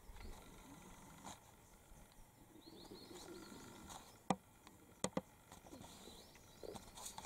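Quiet bushland ambience with faint birds chirping and twittering. Three sharp clicks stand out, one about four seconds in and two close together just after five seconds.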